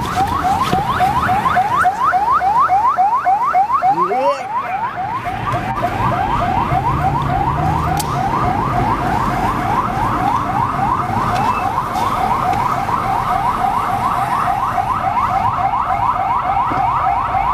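Electronic siren or alarm sounding in fast rising chirps, about five a second, without a break, over a low vehicle rumble.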